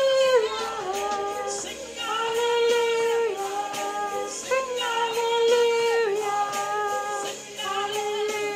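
Gospel worship music: a female voice sings long held phrases of a worship song over a backing track.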